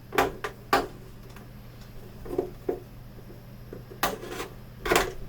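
Plastic casing of a Samsung U32J590 monitor being handled and pressed at its clips: about six scattered sharp clicks and knocks, the loudest near the end, over a faint steady low hum.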